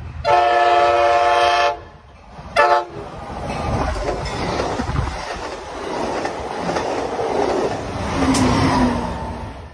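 Amtrak Pacific Surfliner train sounding its chord horn, one long blast and then a short one, followed by the rumble and clatter of the train's cars passing close by.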